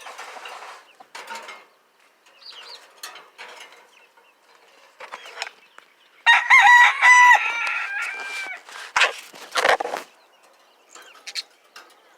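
Budgerigars chirping in short scattered calls, with a loud drawn-out call about six seconds in that lasts about two seconds.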